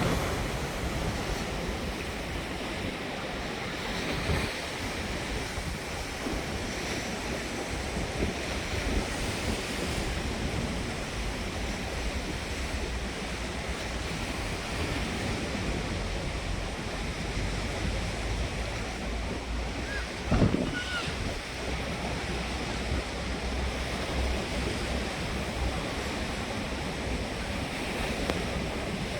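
Strong wind blowing on the microphone: a steady rushing noise with a buffeting low rumble. There is one louder thump about two-thirds of the way through.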